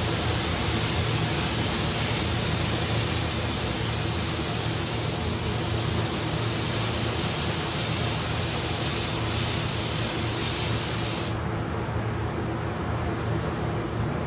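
Paint spray gun hissing steadily as it sprays clear coat, then shutting off abruptly about eleven seconds in, leaving a steady low hum.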